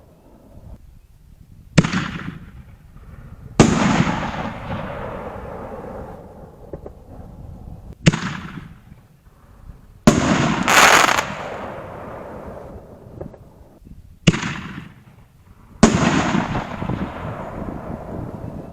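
Three 5-inch canister firework shells fired one after another from mortar tubes: each a sharp lift thump, then about two seconds later a loud break that echoes and fades over a few seconds.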